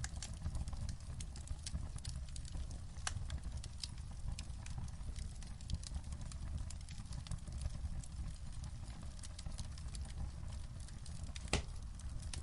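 Wood fire crackling in a fireplace: scattered sharp pops and snaps over a steady low rumble of the burning fire, with one louder pop near the end.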